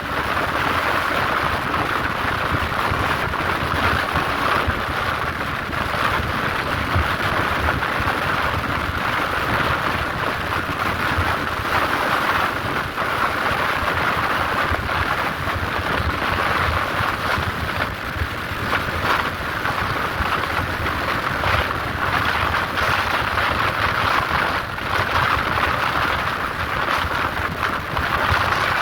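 Steady, loud wind rushing over the microphone of a Honda CG Fan 150 motorcycle held at top speed. The single-cylinder engine's note and road noise are mixed in beneath the wind.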